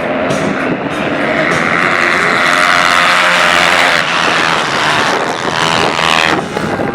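Racing motorcycle engines running hard at high revs, loudest a couple of seconds in.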